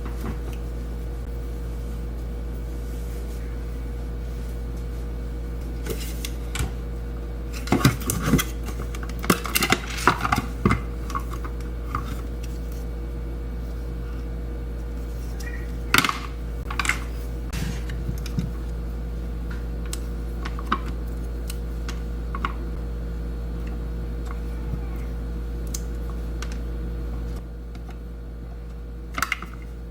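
Kitchen clicks and clatters of cherries being pitted, with utensils and dishes knocking together in irregular bursts, the busiest run about eight to eleven seconds in. A steady low hum sits underneath.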